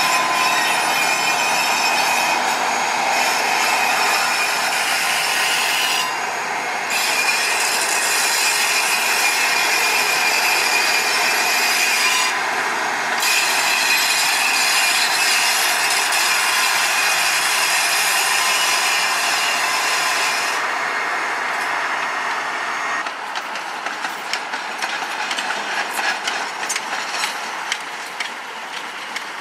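Sugar cane train on its narrow-gauge tramway rolling past, a steady noise of steel wheels on rail with a high wheel squeal. About three-quarters of the way through the squeal fades and a run of sharp clicks and clatter takes over, as the wagons roll over the rail joints.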